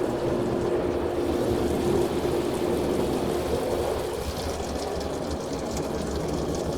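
Christ Auto-Jet car wash spraying water onto the car, heard from inside the cabin: a steady rush of spray over a pump hum that fades out about halfway, after which a crackling patter of droplets takes over.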